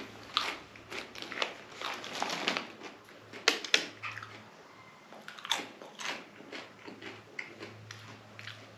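A crunchy packaged snack being bitten and chewed close to the microphone: irregular crisp crunches, the loudest a little over three seconds in, between stretches of quieter chewing.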